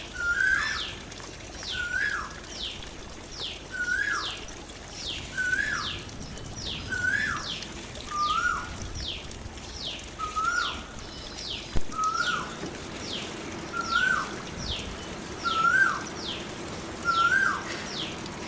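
Songbirds calling over and over: a lower hooked note repeats about once a second, woven with quick high notes that fall in pitch, over a faint steady splash of running water in a birdbath.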